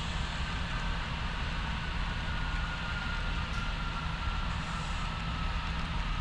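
HO scale model train running along the track: a steady rumble with a faint thin whine that slowly drops in pitch.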